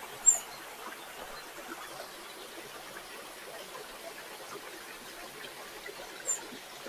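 Steady rush of flowing water, like a stream, with two short high chirps, one just after the start and one near the end.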